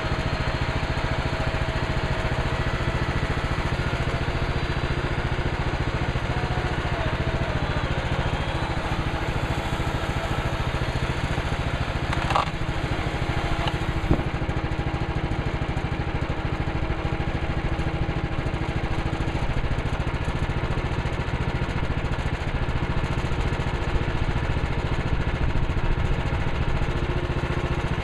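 Woodland Mills HM130 Max portable bandsaw sawmill's gasoline engine running steadily, with a brief sharp click about twelve seconds in and another about two seconds later.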